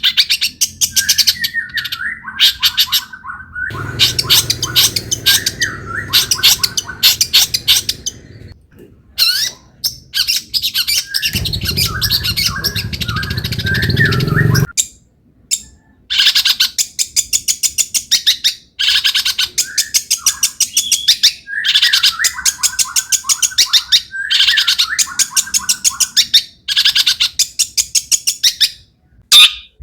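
Long-tailed shrike in full song: fast, harsh chattering phrases mixed with wavering mid-pitched notes, a song filled with imitated calls, broken by short pauses. A low rumble runs under the song twice, for a few seconds each time.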